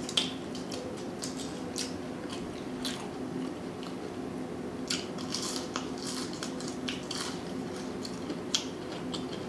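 Close-miked chewing of crispy fried fast food, with irregular short crunches and wet mouth clicks. A faint steady hum sits underneath.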